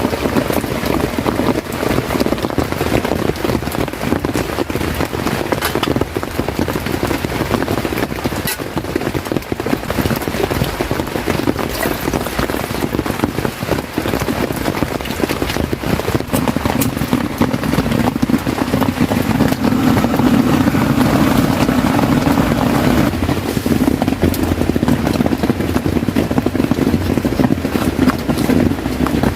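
Heavy rain falling on a tent: a steady, dense hiss of many separate drop hits, growing somewhat louder about halfway through.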